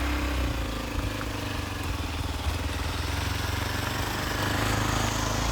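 Hero Xpulse 200 4V's single-cylinder engine running steadily.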